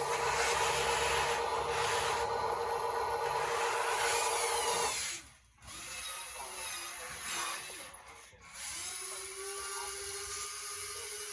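Small electric motors and hydraulic pumps of RC construction models running with a steady whine. It cuts off about five seconds in, and a lower-pitched whine starts near the end.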